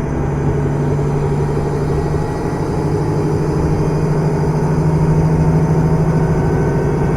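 Interior running sound of a KiHa 110 series diesel railcar: the underfloor diesel engine gives a steady hum over the rumble of wheels on track. It dips briefly and then grows a little louder midway.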